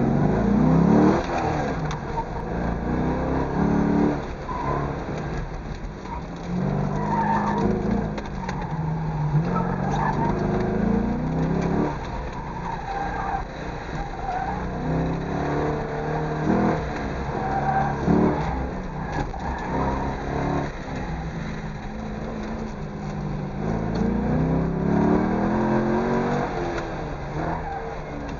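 Corvette V8 engine revving hard and falling back again and again as the car accelerates and brakes through an autocross cone course, heard from inside the car. Street tires squeal in the corners.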